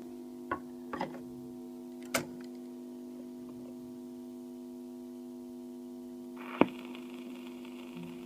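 Steady hum from a manual record deck with a few sharp clicks, then about six and a half seconds in the stylus lands on a shellac 78 with a sharp click and the surface hiss of the lead-in groove starts.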